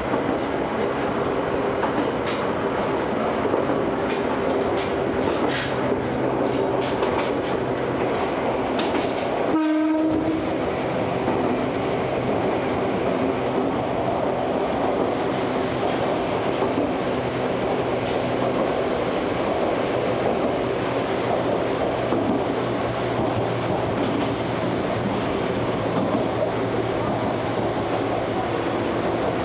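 Ohmi Railway electric train running steadily, heard from inside the car: a constant rumble of wheels and running gear with some clatter over the rails. About ten seconds in, the train gives a short horn blast.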